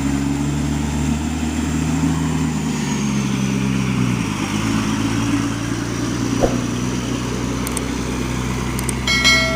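Diesel truck engine running steadily, its pitch dropping about three to four seconds in as a high whine falls with it. A short bright chime rings near the end.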